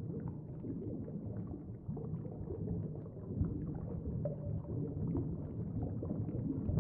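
Low, murky underwater ambience: a steady rumble with faint bubbling clicks scattered through it.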